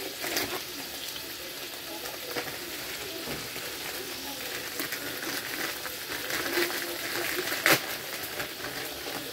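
Scrambled eggs with onion and salmon sizzling steadily in a frying pan, with a few light clicks and one sharper knock near the end.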